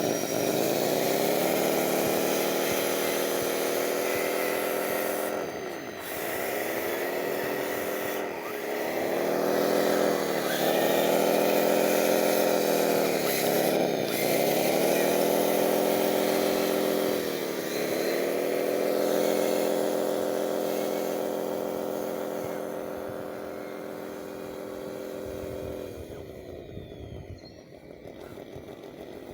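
Hydraulic pump motor of a radio-controlled construction machine whining. Its pitch sags several times as it comes under load and recovers each time, then it drops away near the end.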